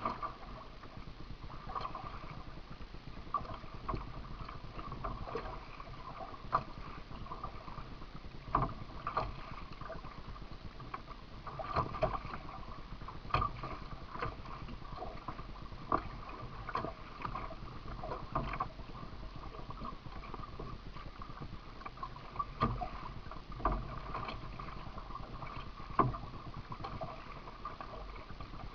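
Kayak being paddled: the paddle blades dip and splash at irregular strokes every second or two, over a steady wash of water.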